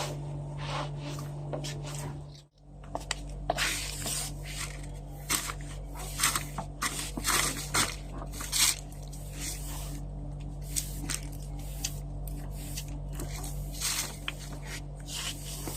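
Household cleaning and handling sounds: irregular short clicks, knocks and scrapes of objects being moved, over a steady low hum. The sound cuts out briefly about two and a half seconds in.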